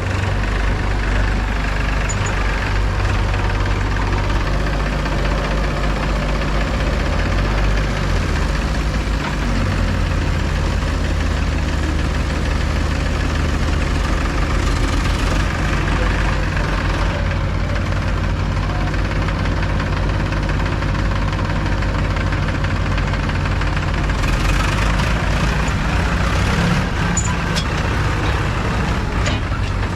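Diesel engine of a JCB 3DX backhoe loader running steadily, its note shifting briefly about eight seconds in.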